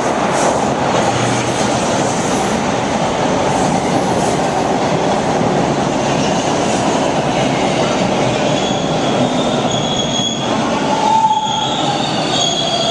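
Subway train pulling into the station platform, running loud and steady, with the steel wheels starting to squeal in high thin tones over the last few seconds.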